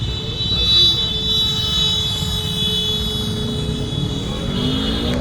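KTM RC 390 sports motorcycle riding along, with heavy wind noise on the microphone and steady high tones; near the end the engine note rises as the bike speeds up.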